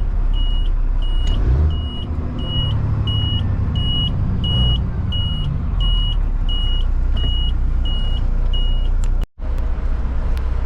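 Truck reversing alarm beeping about twice a second, a steady high-pitched beep, over the low running of the truck's Caterpillar C-15 diesel engine as it backs up. The beeping stops about nine seconds in, and the sound cuts out for a moment just after.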